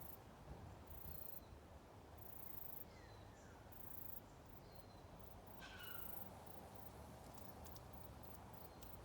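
Faint outdoor garden ambience: a few short, distant bird chirps, some falling in pitch, over a low steady hiss.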